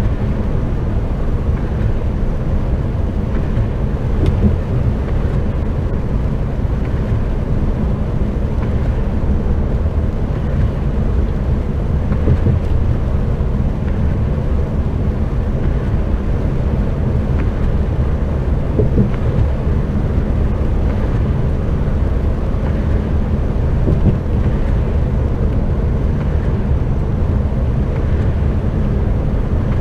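Steady low drone of a lorry's engine and tyres heard from the cab while cruising on the motorway.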